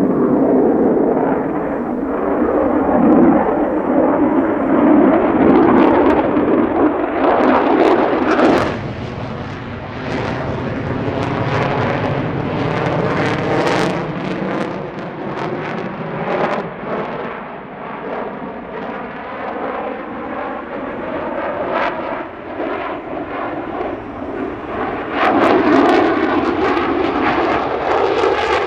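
Lockheed Martin F-35A fighter's single Pratt & Whitney F135 turbofan: a loud jet roar with a sweeping, shifting tone as the jet flies its display. The roar drops off sharply about eight seconds in and swells again near the end.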